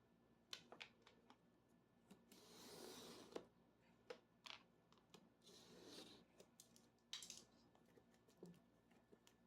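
Faint handling of gift-box packaging: scattered light clicks and taps, with two soft rustling swishes, one about two and a half seconds in and another near the middle.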